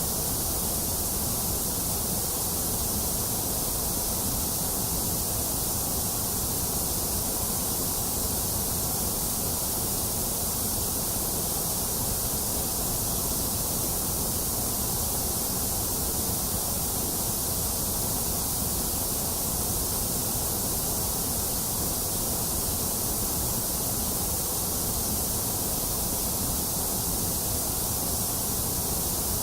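Steady electronically generated noise for infant sleep: an unchanging hiss with no rhythm or events, strong in the low and high end with a dip in the middle.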